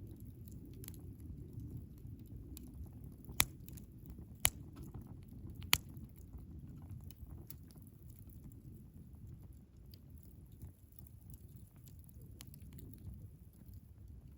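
Wood fire burning in a Picogrill 398 fire pit: a steady low rumble of flames with scattered small crackles, and three sharp pops about a second apart a few seconds in.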